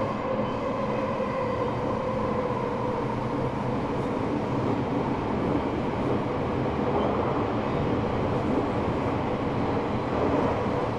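Running noise of an Eidan 6000-series subway car fitted with a Mitsubishi three-level VVVF inverter reused from the 7000 series, heard from the floor inside the car: steady wheel-and-rail rumble with faint, even motor and inverter whine.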